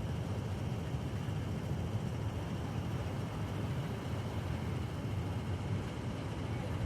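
Steady low rumble of a vehicle's engine heard from inside the cabin.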